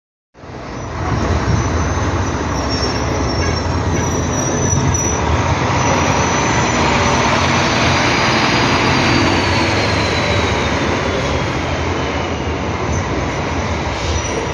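Scania F360HA-chassis bi-articulated BRT bus running, a steady rumble and road noise setting in just after the start. A faint high whine climbs and then falls in pitch through the middle.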